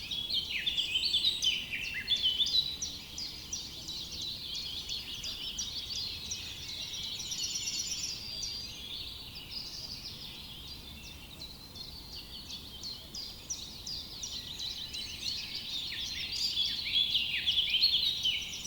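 A chorus of many songbirds chirping and trilling over one another, busiest near the start and again near the end.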